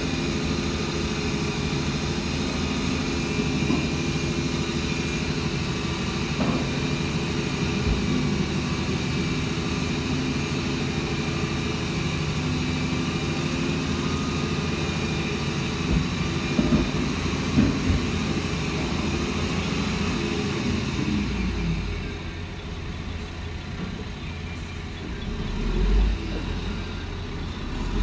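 Shantui DH17C2 crawler bulldozer's diesel engine running steadily, with a few knocks about sixteen to eighteen seconds in. The engine sound drops and grows quieter a little past twenty seconds.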